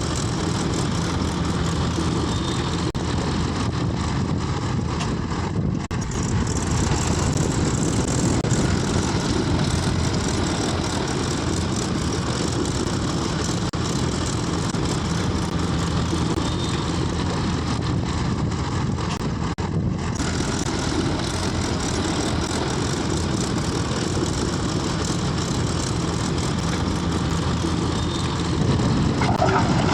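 Heavy machinery diesel engine, most likely the JCB 3DX backhoe loader working, running steadily. It dips briefly twice and gets louder near the end.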